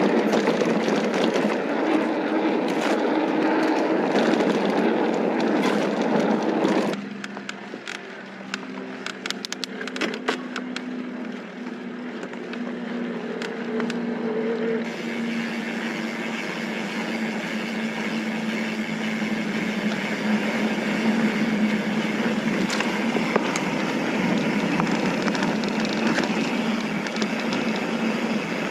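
Mountain bike riding down a dirt trail: wind rushing over the helmet-camera microphone and tyres rolling over dirt. About seven seconds in it drops suddenly to a quieter stretch with a run of clicks and rattles, then builds back up to steady riding noise.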